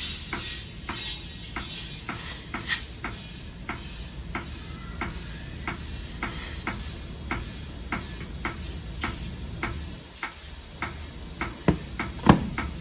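Steady ticking, about three ticks a second, with two louder knocks near the end.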